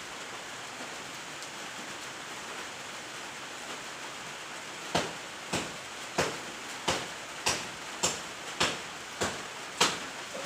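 Steady rain hiss. About halfway through, a run of about ten sharp chopping strikes begins, evenly spaced at a little under two a second, as the fallen breadfruit tree is cut up.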